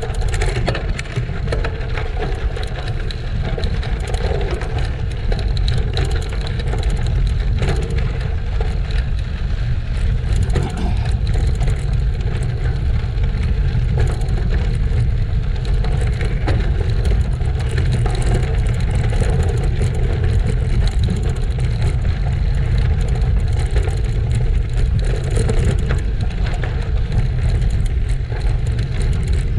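Steady wind buffeting on the microphone of a moving bicycle, over the crunch and patter of tyres rolling on gravel.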